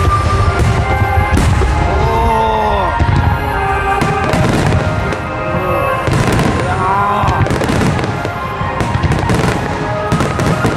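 Fireworks display: aerial shells bursting in repeated booms and crackles over music played for the show.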